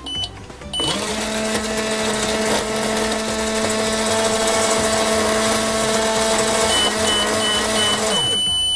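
Microwave oven running: a short beep, then a loud steady hum with a whirring hiss that swells in about a second in and winds down near the end, with a string of short high beeps as it finishes.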